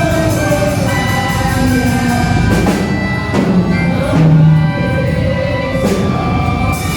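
Church band music: sustained instrument tones over steady drums, with a few sharper drum or cymbal strokes through the middle.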